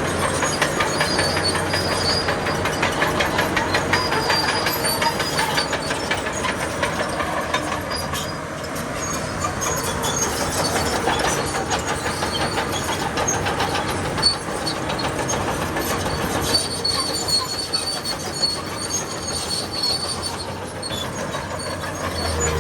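Crawler bulldozer's steel tracks clattering in a rapid run of clanks, with short high-pitched squeals from the track running gear, over the sound of the machine working.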